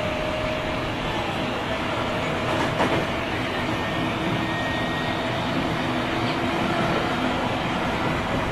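Tobu 9000 series chopper-controlled electric train running between stations: a steady rolling rumble with faint whining tones from the traction equipment, the unusual motor sound this car is known for. A single click comes about three seconds in.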